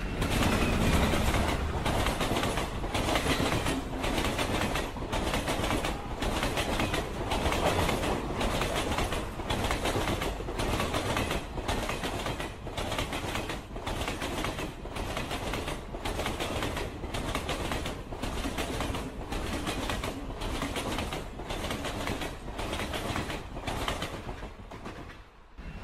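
Train running along the track: a steady rumble with the wheels clattering over rail joints in a regular beat, heard from inside the carriage.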